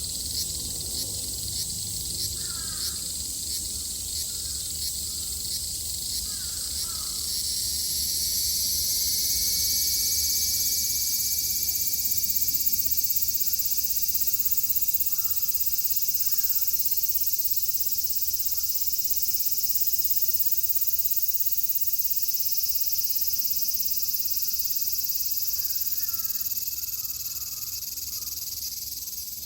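Cicadas singing in a dense high-pitched chorus, a rapid ticking pulse at first that about seven seconds in gives way to a steady buzz that grows louder. Crows caw faintly a few times.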